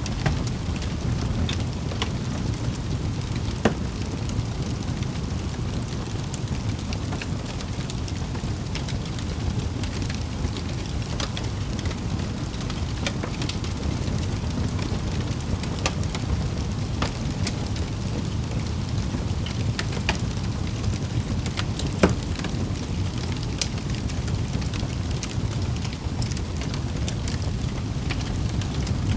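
Wood fire crackling in a fireplace: a steady low rumble with scattered sharp pops and snaps, the loudest pop about two-thirds of the way through.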